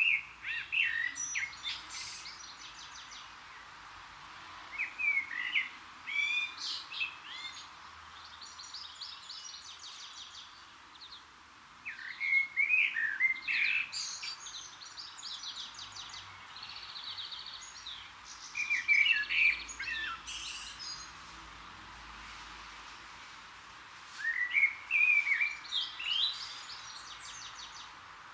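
A songbird singing in separate phrases several seconds apart. Each phrase is a run of warbled notes followed by higher twittering, over a faint steady background of outdoor noise.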